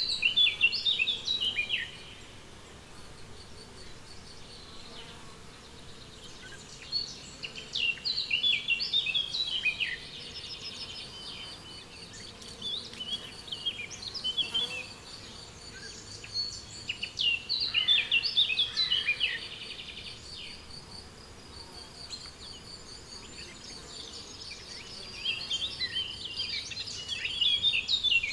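Meadow ambience: a songbird sings quick warbled phrases several times, a few seconds apart, over a steady pulsing chirr of crickets and faint buzzing insects.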